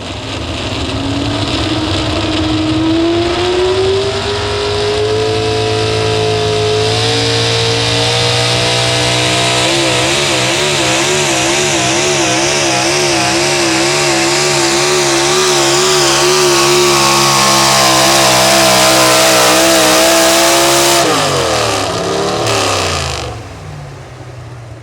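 A pulling truck's engine at full throttle under heavy load, its pitch climbing steadily and then wavering quickly up and down as the truck bounces against the sled. About three-quarters of the way in the throttle is let off sharply, followed by one short rev before the engine drops back.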